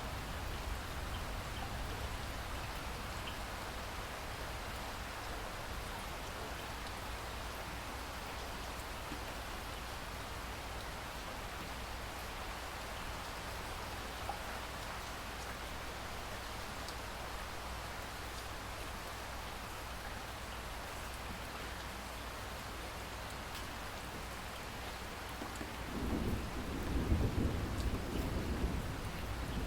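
Steady rain falling, with a rolling rumble of thunder that builds up near the end.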